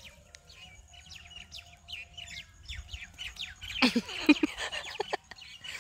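Small birds chirping: many short, high chirps that sweep downward, repeating throughout, with a louder, busier burst about four seconds in.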